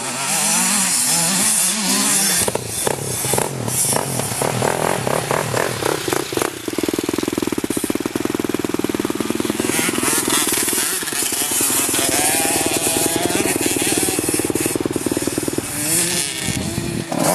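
Motocross dirt bike engine revving up and down through the gears, then holding a steady high-revving buzz for several seconds before easing off near the end.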